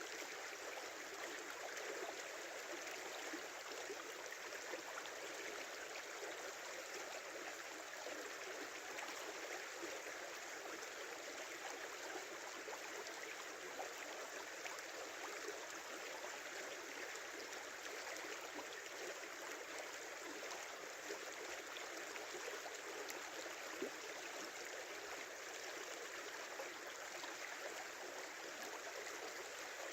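A small river running steadily, its water babbling and gurgling.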